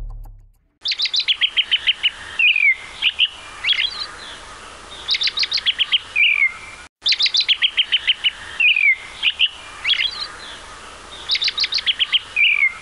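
Songbird singing: quick trills and down-slurred chirps, high-pitched, over a faint steady hiss. The same six-second stretch of song plays twice, with a short break between, as a looped recording.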